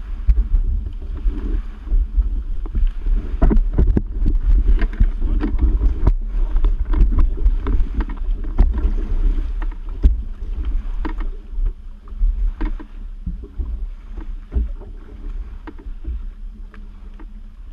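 Yamaha Waveblaster personal watercraft with a tuned 701 two-stroke running on the water. Heavy, gusting wind buffets the microphone, with many sharp slaps of water against the hull, easing off near the end.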